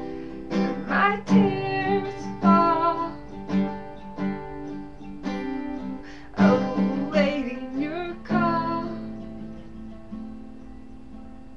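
Acoustic guitar strummed in a slow rhythm under a woman's voice singing two held phrases. Near the end a last chord is left ringing and fades away, closing the song.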